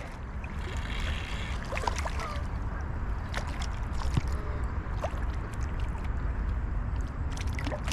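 Steady rush of moving river water, with a few faint clicks and small splashes.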